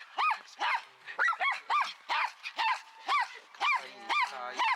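A dog barking in a quick run of short, high yapping barks, about two a second, with one longer whining call near the end.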